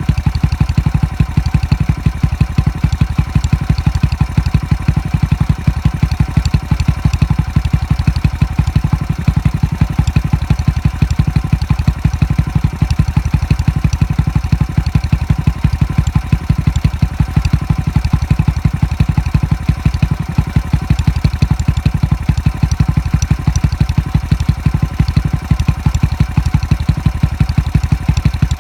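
Honda Little Cub's single-cylinder four-stroke engine idling steadily through a Takegawa Cabton-style aftermarket muffler, with an even exhaust pulse.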